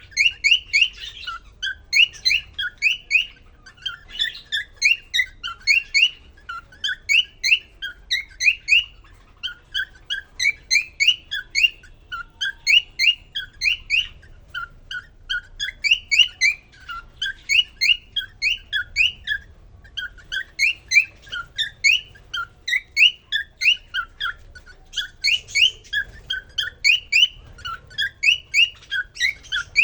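Male cockatiel's courtship song: quick runs of short, rising whistled notes, several a second, in phrases broken by brief pauses.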